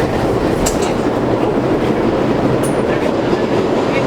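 Kawasaki-built R62 subway car running along the track, heard from inside the car: a steady rumble with wheels clattering over rail joints. There is a sharp click about half a second in and a brief high squeal about two and a half seconds in.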